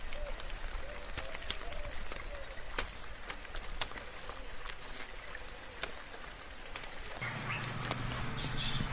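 Soft rain, with scattered drops ticking against a steady hiss, and short bird calls over it. From about seven seconds in, a louder low hum and more noise join.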